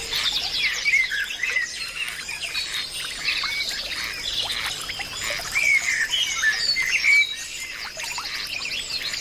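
A dense chorus of many wild birds calling at once: chirps, quick trills and rising and falling whistles overlapping throughout, over a faint steady high tone.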